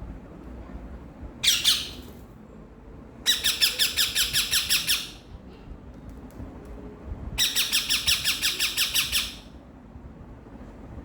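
Baby ringneck parakeets squawking: one short call, then two long runs of rapid, rhythmic squawks of about seven pulses a second, each lasting about two seconds.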